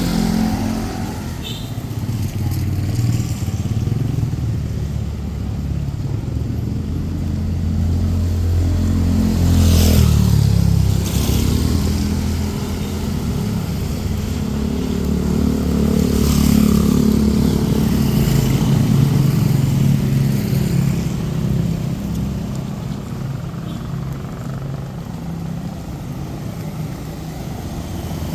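Street traffic: motorcycle and car engines running and passing close by, swelling louder about a third of the way in and again past the middle.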